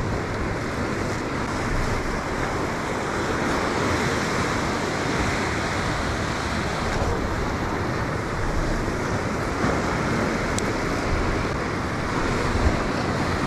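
Ocean surf washing against the shoreline rocks, a steady rush of noise, with some wind on the microphone.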